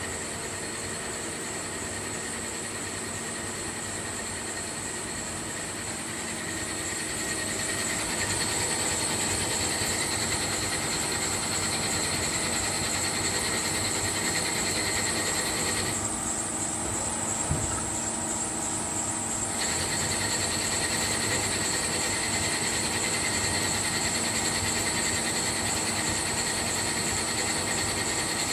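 CNC machine tool running through a machining cycle: a steady whine of several high tones over a hiss. It gets louder about seven seconds in, and the upper tones drop out for a few seconds past the middle.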